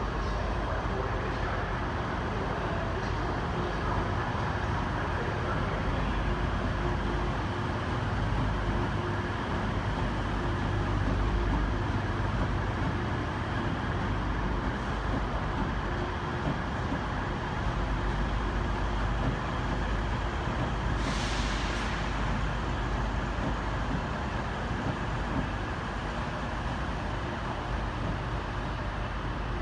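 Diesel multiple-unit trains running with a steady low rumble. A short hiss of air sounds once, about two-thirds of the way through.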